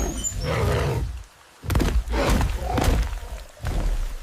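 Deep animal growls in three long bursts over a low rumble.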